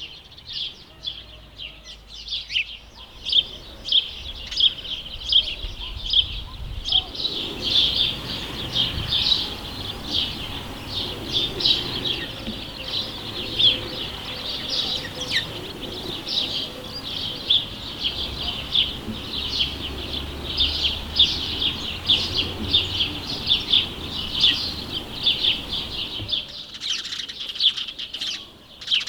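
House sparrows chirping: a steady, rapid stream of short, repeated chirps.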